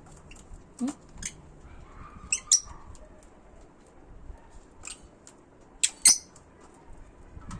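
Small pet birds giving short, sharp chirps and squawks every second or two, loudest twice, a little after two seconds and again about six seconds in.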